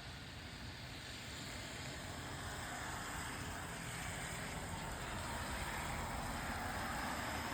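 A vehicle's tyres hissing on a wet road, the rushing noise growing louder over several seconds.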